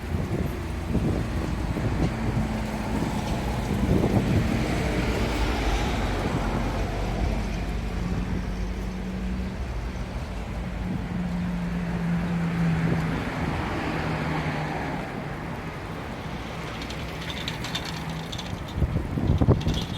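Sandstorm wind gusting and buffeting the microphone, with road traffic and engines running underneath. A brief clatter near the end.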